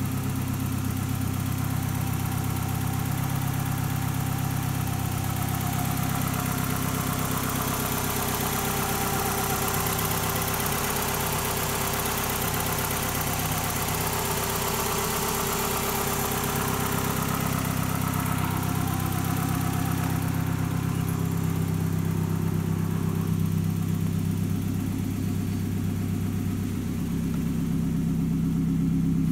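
Toyota Camry All-Trac's inline four-cylinder engine idling steadily, running through a newly replaced exhaust.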